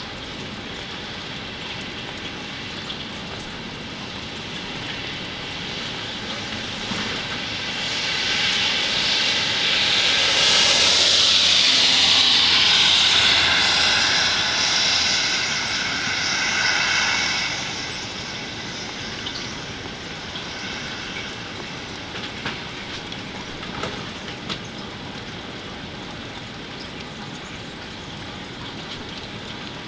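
Steady rain with a vehicle passing through it: a rushing sound swells about eight seconds in, peaks with a falling whine, and fades about eighteen seconds in.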